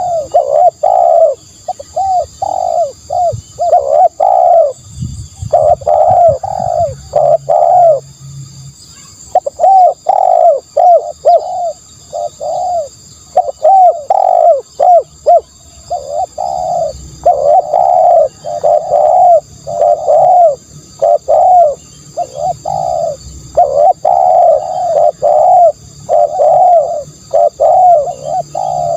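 Spotted doves cooing over and over: quick runs of short, mellow coo notes, several a second, with a brief pause about eight seconds in.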